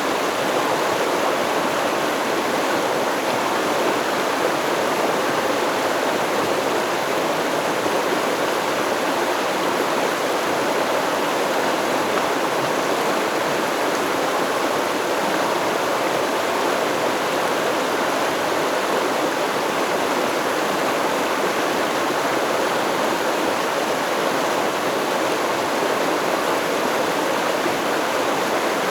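River or stream water flowing steadily over rocks, a constant rushing with no change.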